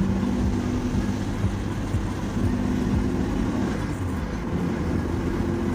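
Steady engine and road noise of a car moving along a highway, heard from inside the cabin, with a low, even hum.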